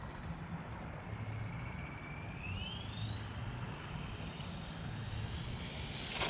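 Electric RC car's motor and gearing whining and rising steadily in pitch as it accelerates away, over a low rumble of tyres on pavement.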